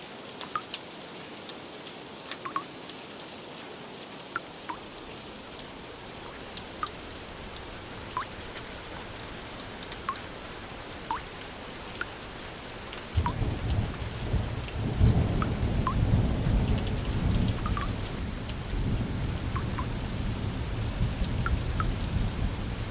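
Steady rain, with separate drops plinking every second or so. About halfway through, a low rumble of thunder sets in suddenly and rolls on, loudest a couple of seconds after it starts.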